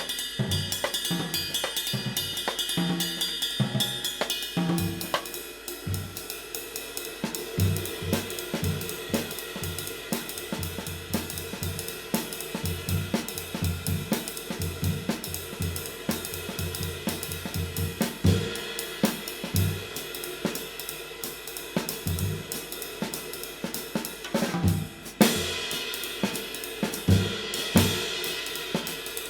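A handmade 20-inch Kamin K-Klasse Light ride cymbal, cast B20 bronze weighing 1872 g, played in a drum-kit groove over bass drum and snare hits. Near the end the cymbal wash turns louder and brighter.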